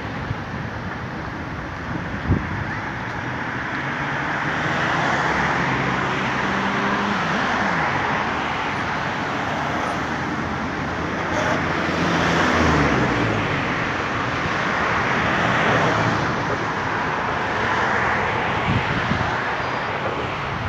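Road traffic: car engines and tyres running steadily, with one engine note dropping in pitch midway as a vehicle goes by, and a short thump about two seconds in and another near the end.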